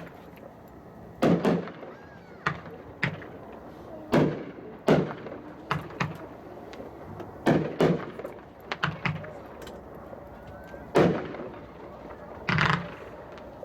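Forthnite 16-shot 350-gram consumer firework cakes, two fired together, shooting a series of sharp bangs at irregular intervals of about a second, several coming in quick pairs.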